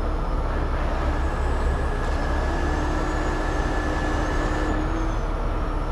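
Heavy tow truck's diesel engine running steadily to power the hydraulic boom and winch during a lift: a continuous low rumble with a steady high whine over it.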